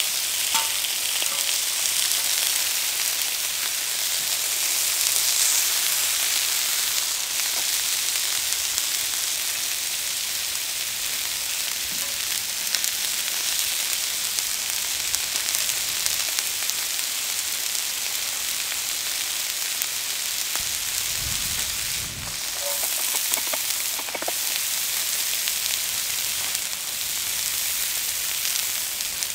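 Chicken drumsticks sizzling steadily in hot oil on a cauldron-lid griddle, a continuous bright frying hiss.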